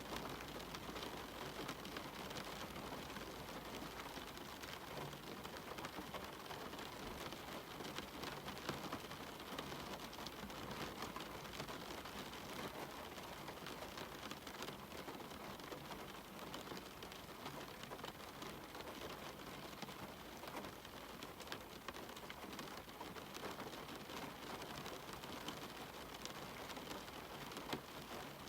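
Steady rain falling, with a dense run of small individual drop hits over an even hiss.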